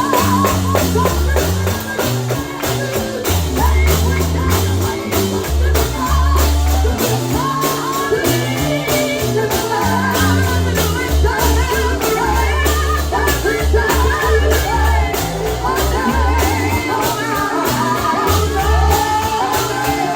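Live gospel song: voices singing over deep bass notes, with percussion keeping a steady beat.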